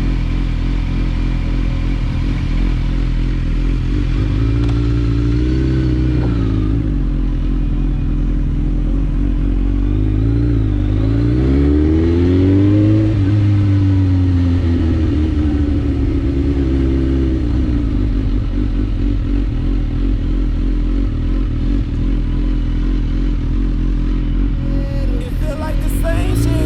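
Suzuki GSX-R1000 sport motorcycle engine running while riding, heard from on the bike. Its pitch rises and falls as the rider accelerates and eases off, twice in the first part, then it holds steady. A short clattering comes in near the end.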